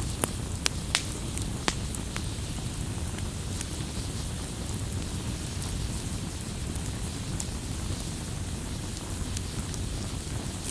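Wood fire burning: a steady low rush of flames with sharp crackles and pops, several close together in the first two seconds, then sparser.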